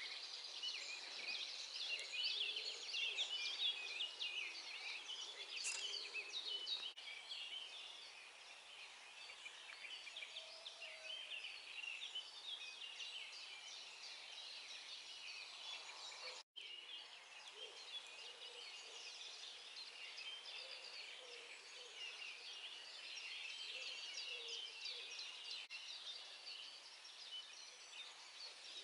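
Dawn chorus of many songbirds: a dense, overlapping mix of chirps, twitters and trills. It breaks off for a split second about two-thirds of the way through.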